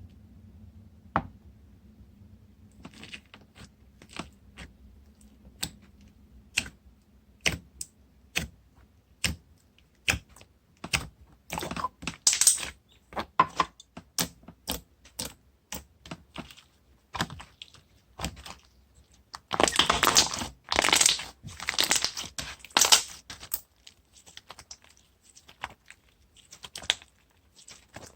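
Toffee slime being pressed and poked by hand, giving separate sharp clicks and pops. The clicks come in denser crackling runs about halfway through and again a few seconds later.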